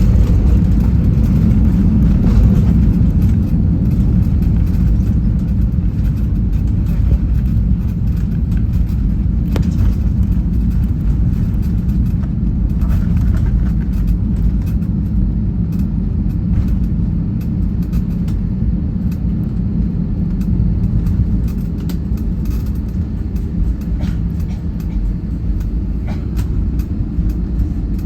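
Steady low rumble of an airliner's engines and rushing air heard inside the passenger cabin, easing slightly in loudness over the stretch.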